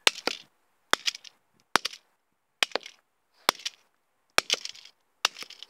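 A toy car being struck hard over and over, seven sharp hits a little under a second apart, each with a short ringing tail; the car is holding up and does not break.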